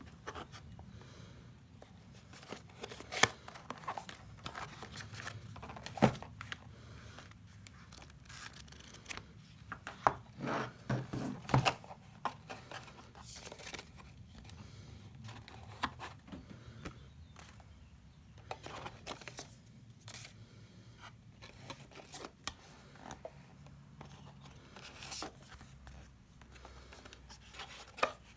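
Packaging being handled and opened by hand: scattered sharp clicks and snaps with rustling and tearing of cardboard and plastic, the loudest clicks about 3 and 6 seconds in and a busy cluster around 10 to 12 seconds.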